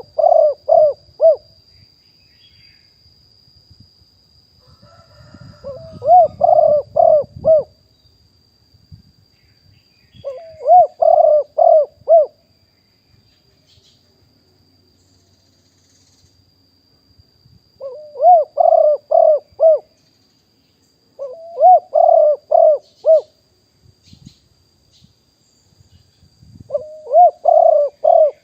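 Spotted dove cooing: a phrase of about five quick coo notes, repeated six times with pauses of several seconds between phrases. A faint steady high-pitched tone runs underneath.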